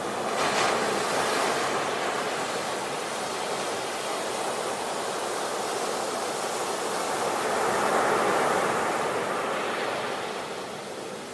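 Ocean waves washing ashore: a steady rush of surf that swells about a second in and again about eight seconds in, then eases toward the end.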